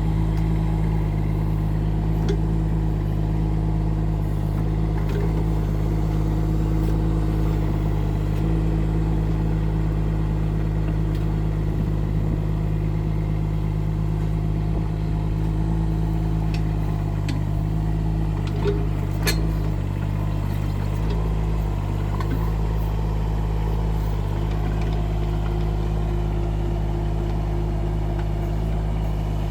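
Rippa R15 mini excavator's diesel engine running at a steady speed, with a few short clicks over it.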